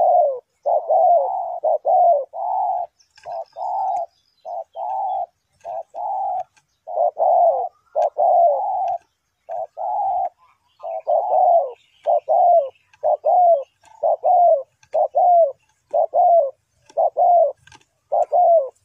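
Spotted dove cooing: a long run of short, low coo notes, about one or two a second, some coming in close pairs.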